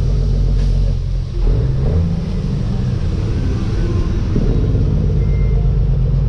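Dump truck's diesel engine running under way, heard from inside the cab as a steady low rumble, with a brief dip and change in the engine note about a second in.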